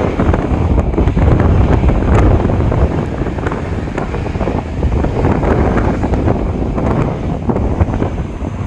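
Wind buffeting the microphone: a loud, rough rumble that rises and falls unevenly.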